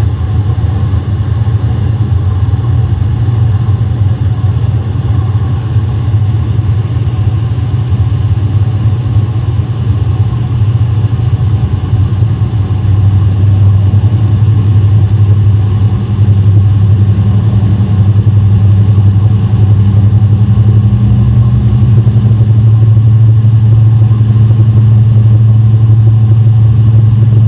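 A loud, steady low humming drone of unknown origin, captured by a sleep-recording app at night. It grows louder about 13 seconds in and again around 16 seconds.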